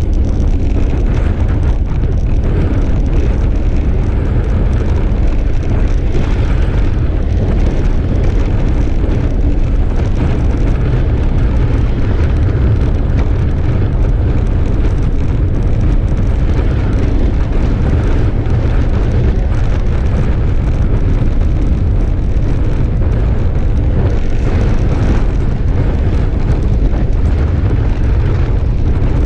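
Wind buffeting a GoPro's microphone while riding a bicycle along a road: a loud, steady, deep rumble with a hiss above it.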